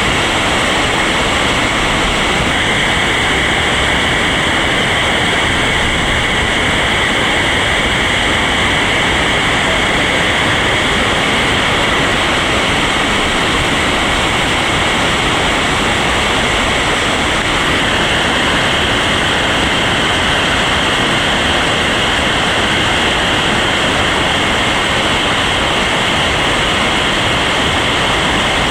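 Steady, loud rush of whitewater rapids on a river running high and full.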